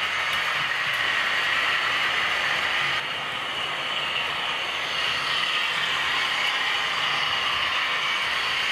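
Model V200 diesel locomotive running on the layout, a steady mechanical hiss and whir of its drive and wheels on the track, dipping slightly about three seconds in.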